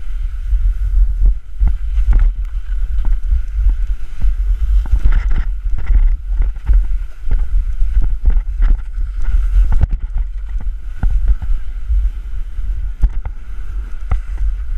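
Glissading down a snow slope: a continuous scraping hiss of snow under the sliding body, broken by irregular bumps and knocks, over heavy wind buffeting on the microphone.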